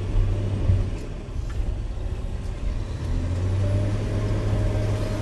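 Caterpillar 120K motor grader's diesel engine running steadily, its hum strengthening and a higher steady whine joining in a little past halfway.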